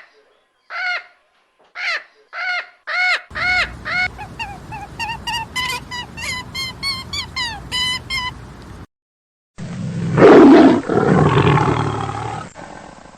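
Animal calls: a run of short, repeated calls, each rising and falling in pitch, speeding into quick chirps, then after a break a loud, rough call lasting about three seconds.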